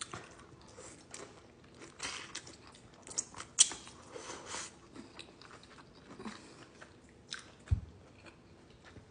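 Close-miked chewing and biting: a person eating, with irregular short mouth clicks and smacks. A brief low thump comes near the end.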